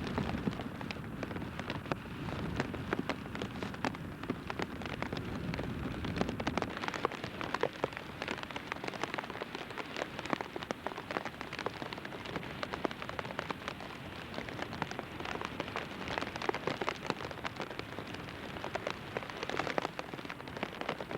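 Heavy rain pelting down, a dense patter of drops striking close by, with a low rumble under it that fades out about six seconds in.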